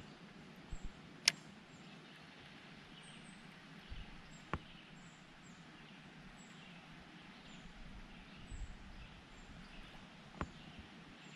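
Faint bird calling with short, high, falling chirps about once a second, over quiet outdoor background noise. A few light clicks break in, the sharpest about a second in.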